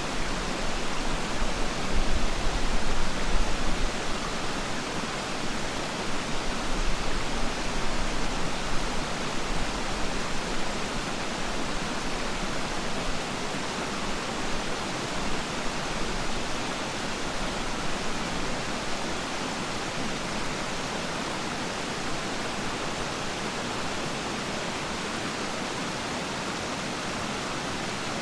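Waterfall's steady rush of falling water: an even, unbroken hiss. Twice in the first ten seconds a low rumble swells up under it.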